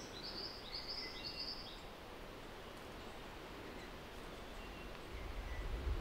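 A bird calls a quick run of short, high chirps in the first two seconds, over a steady faint hiss of forest background. A low rumble comes in near the end.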